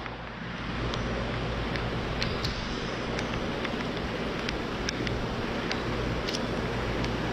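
Steady rushing noise of stormy wind, with wind buffeting the microphone and irregular sharp ticks scattered through it.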